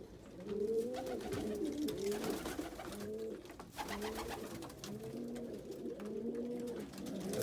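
Several domestic pigeons cooing together, low arching coos overlapping and repeating one after another.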